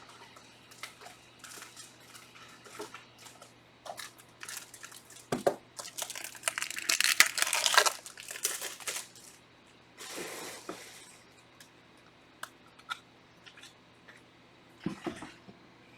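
Plastic trading-card packaging being handled: crinkling and rustling with scattered light clicks and taps, loudest for about two seconds around the middle.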